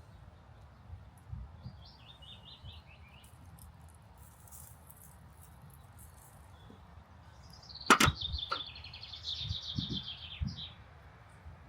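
Wild birds chirping and trilling outdoors: a run of short high notes early on, then a longer rapid trill later. A single sharp click about eight seconds in is the loudest sound, followed by a few soft knocks.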